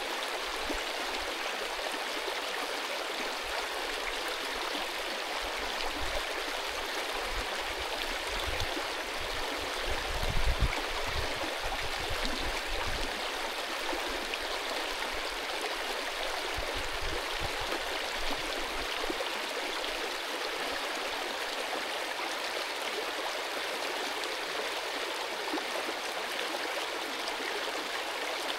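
Mountain stream rushing steadily over stones. About ten seconds in there is a brief low rumble.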